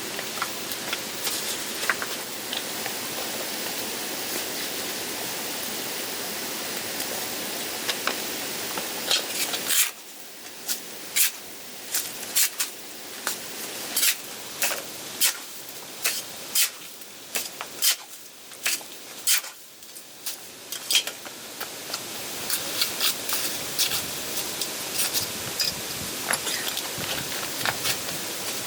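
Steady rain hiss. For about ten seconds in the middle the hiss falls away and single drops tap sharply and irregularly, then the steady hiss returns.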